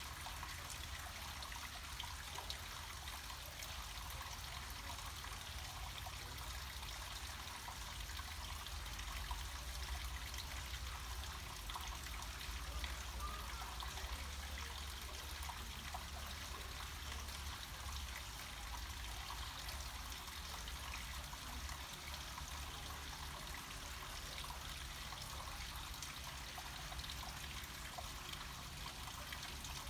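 Water flowing and trickling down a small mountain stream, a steady even noise with a low rumble underneath.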